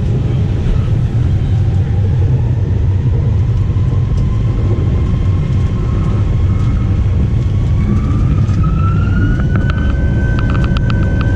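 Airbus A320 heard from inside the passenger cabin: a loud, steady low rumble of the engines and airflow, with an engine whine that rises in pitch about eight seconds in as the engines speed up. A few light rattling clicks come near the end.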